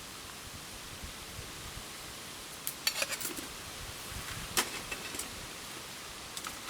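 A few sharp clicks and light clinks over a steady hiss: a quick cluster about three seconds in, a single louder click a little later, and another near the end.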